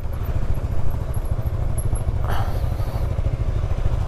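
Motorcycle on the move: a steady low rumble of engine and wind buffeting on the rider's microphone, with a short rush of noise a little over two seconds in.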